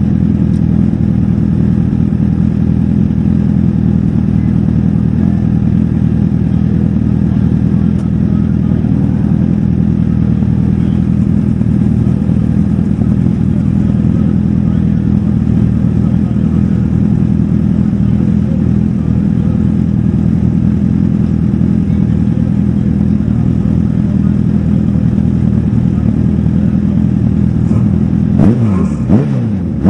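Race car engine idling loudly and steadily while the car sits still. Near the end the throttle is blipped a few times, and the engine note rises and falls quickly.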